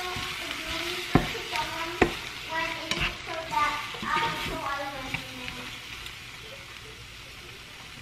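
Eggs and tortilla strips frying in a pan, sizzling while being stirred, with the utensil knocking against the pan three times in the first few seconds. The sizzle grows quieter in the second half.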